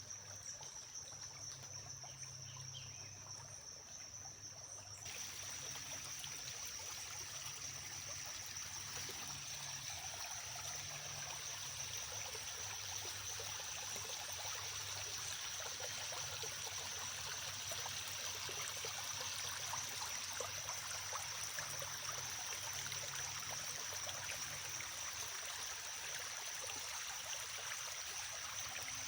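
Creek water running and trickling steadily, growing a little fuller and louder about five seconds in, with a steady high-pitched tone.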